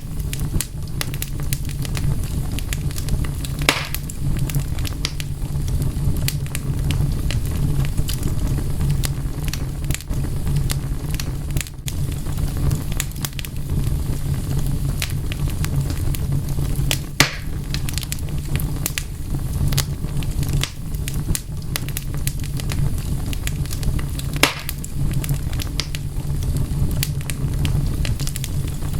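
Wood fire crackling over a steady low rumble: dense small crackles throughout, with a few sharper pops standing out.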